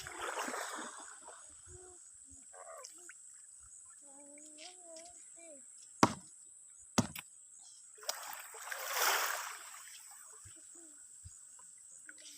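Sea waves washing in twice, near the start and again about two-thirds of the way in, while a nuri parrot (lory) gives a few soft, faltering calls between them. Two sharp clicks, the loudest sounds, fall in the middle.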